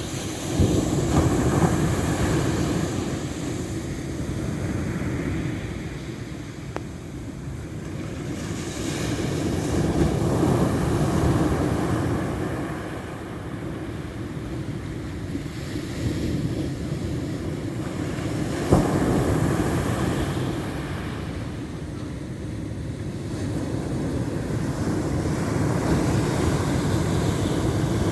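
Ocean surf: waves breaking and washing in, the sound swelling and ebbing every several seconds. A single short sharp snap about two-thirds of the way through.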